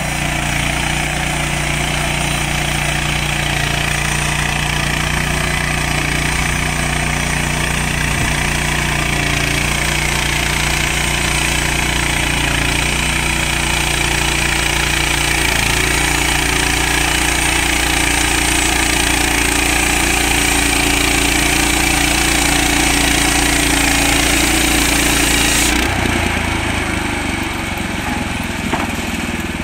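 Frontier OS31 portable band sawmill cutting a log: its engine runs steadily under load while the band blade makes a high, even noise in the wood. About 26 seconds in the cutting noise stops suddenly as the blade clears the cut, and the engine keeps running.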